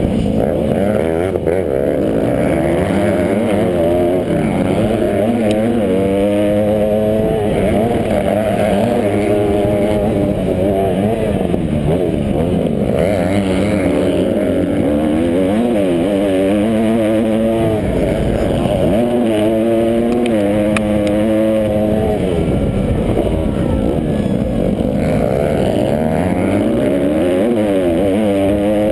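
Several motocross bikes racing, their engines revving up and falling back over and over as they shift and throttle, the overlapping engine notes rising and dropping in pitch.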